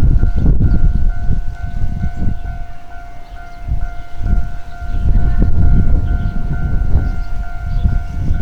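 Taiwan Railways DR1000-series diesel railcar running: a heavy low rumble that eases about three seconds in and builds again, with a steady high tone over it.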